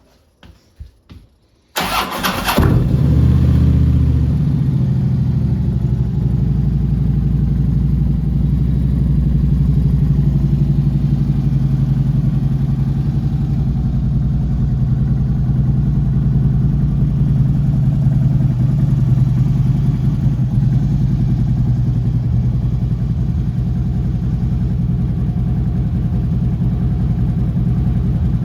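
2011 Harley-Davidson Street Glide's V-twin engine starting: a few faint clicks, a brief burst of cranking about two seconds in as it catches, then a steady idle.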